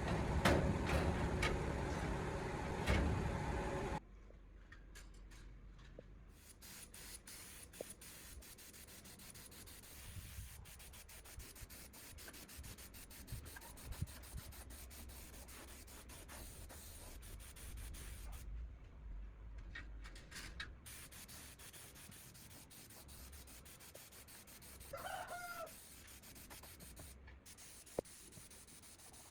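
A loud, rough noise cuts off suddenly about four seconds in. Quieter rubbing and scraping of hand work follows, with scattered clicks. Near the end a chicken gives one short call.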